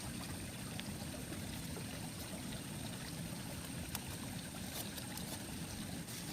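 Running water flowing steadily, with a few faint clicks.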